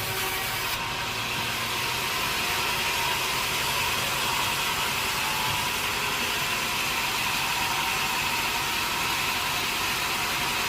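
Sawmill saw machinery running steadily: a continuous hissing noise with a high whine that grows stronger about two seconds in.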